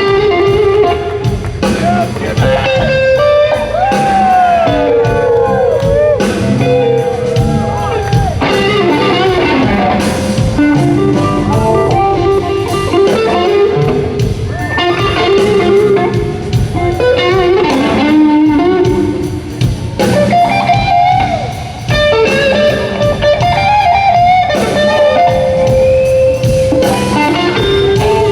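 Live blues-rock band playing loudly, led by an electric guitar whose lines glide and bend between notes, over bass and drums.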